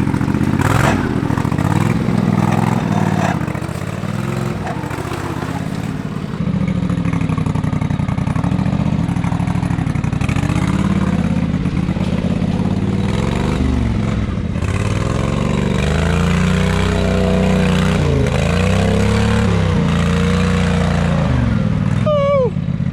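Modified off-road lawn tractor engine working hard through deep mud, revving up and down over and over as the driver throttles through the obstacles.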